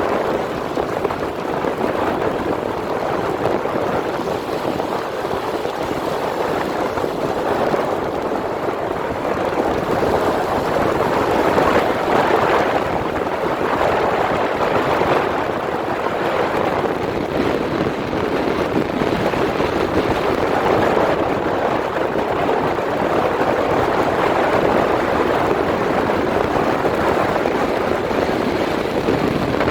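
Car driving on a snowy road: a steady hiss of tyres and wind noise with slight swells, and no distinct engine note.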